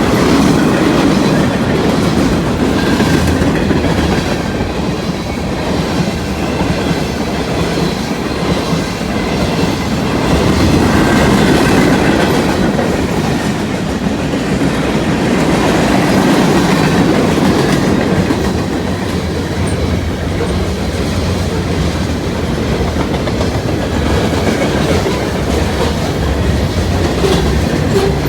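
Freight cars of a manifest train rolling past at steady speed: a continuous rumble of steel wheels on rail with a running clickety-clack over the rail joints.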